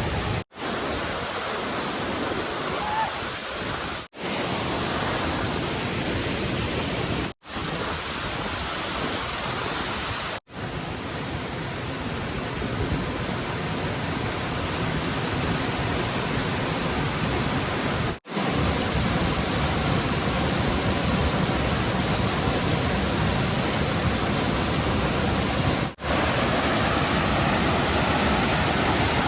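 Rushing stream water, a steady loud rush of flowing water, cut off for an instant about six times.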